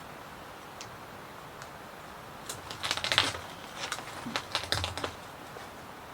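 Puffed-rice snacks (뻥튀기) crunching in two bursts of crisp, crackling clicks, about two and a half and four seconds in.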